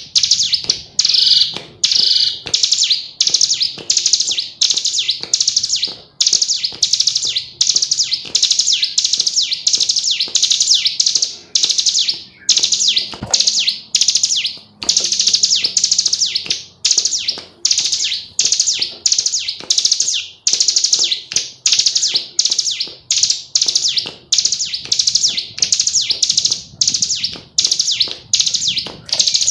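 Female ciblek gunung (hill prinia) calling without pause: a fast, even series of short, high notes, about two a second.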